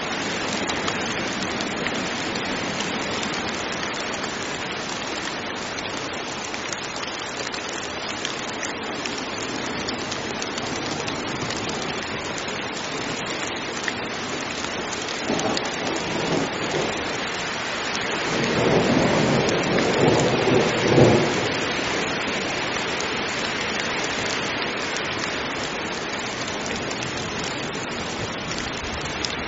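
Heavy rain falling steadily, with thunder rumbling in about halfway through and peaking about two-thirds of the way in before fading back into the rain.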